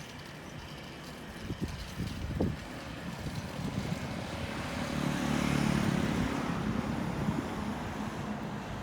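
A motor vehicle passing along the street: its engine and tyre noise swell to a peak about halfway through and then fade. A few short knocks are heard a couple of seconds in.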